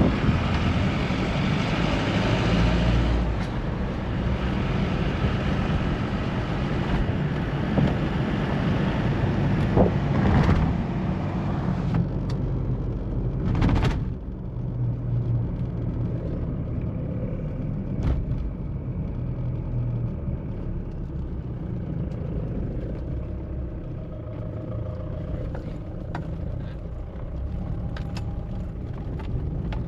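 A 2013 Mahindra Bolero's diesel engine and road noise heard while driving, a steady low rumble with tyre and wind hiss. The hiss is strong at first and drops away about halfway through, and there are a few clicks and knocks later.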